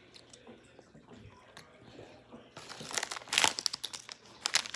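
Snack packaging crinkling in several sharp, loud bursts over the last two seconds, after a faint stretch.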